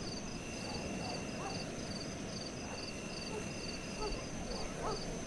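Insects chirping in a regular high pulse, about two chirps a second, with a steadier high buzz alongside, over a steady low rush of the sea. A few faint short calls rise briefly above it.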